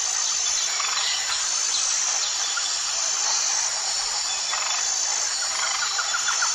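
Outdoor nature ambience with insects: a steady hiss under a thin, high chirring that comes and goes. About five and a half seconds in, a fast, even pulsing trill begins.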